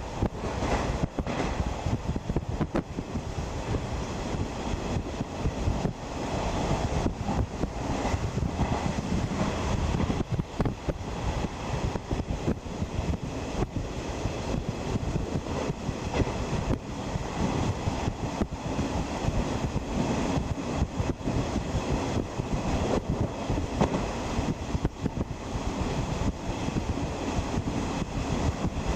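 Running noise heard inside a 50-series passenger coach: a steady rumble of steel wheels on rail, with many short clicks and knocks from the track.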